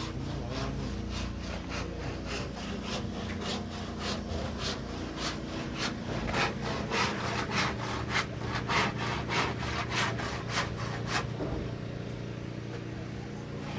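Rapid back-and-forth hand-sawing strokes on wood, about three a second, growing louder through the middle and stopping about two seconds before the end. A steady low hum runs underneath.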